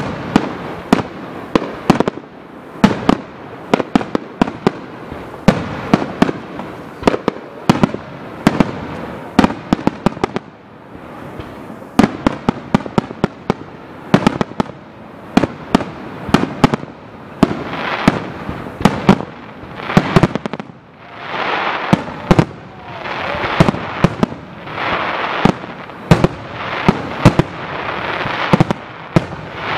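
Starmine fireworks: aerial shells bursting in rapid succession, a dense run of sharp bangs and deeper booms. From the middle onward crackling hiss swells up between the bangs.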